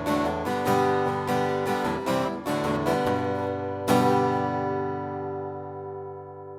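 Acoustic guitar strumming the song's closing chords, ending on one last strummed chord about four seconds in that rings out and slowly fades.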